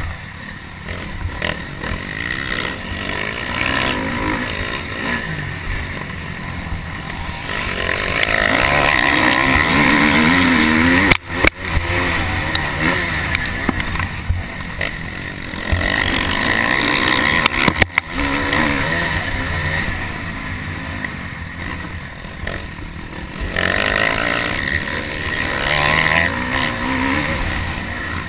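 Motocross dirt bike engine racing, its pitch rising and falling over and over as it revs through the gears. The sound drops out sharply twice for an instant near the middle.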